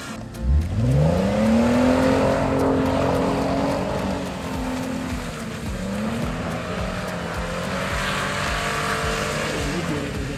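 Audi TT engine revving up sharply about half a second in and held at high revs, easing off and revving again around six seconds in, as the car spins circles through deep mud.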